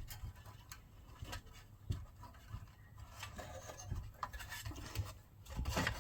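Scattered faint clicks and light rubbing of small engine parts being handled while a fuel line is worked onto its fitting, with busier rubbing and clicking near the end.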